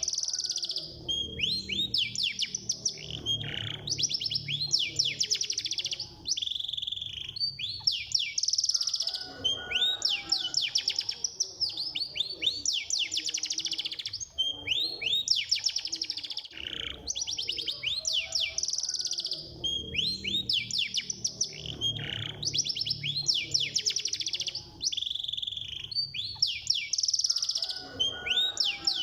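Canary singing continuously in fast, dense trills and rolling phrases, the rapid 'speed' song style used as a tutor recording to set other canaries singing.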